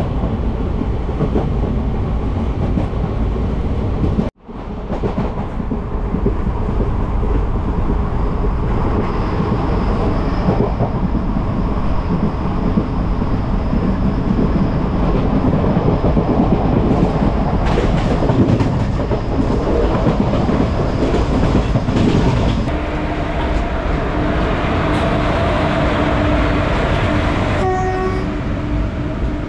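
Passenger train running, heard from an open coach door: steady rushing noise of wheels on rails and wind, cut off for an instant about four seconds in. In the last seven seconds a long steady tone sounds over the running noise.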